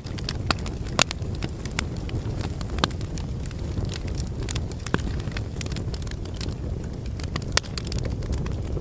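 Wood fire burning in a fireplace: a steady low rumble of flames with scattered sharp crackles and pops from the logs, the loudest about one second in and near three and five seconds.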